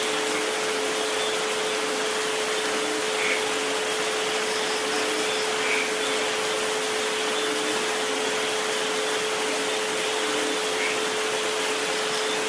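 Steady hiss of rain with a continuous pure tone at 432 Hz and a fainter one at 528 Hz held underneath, and faint short tones now and then.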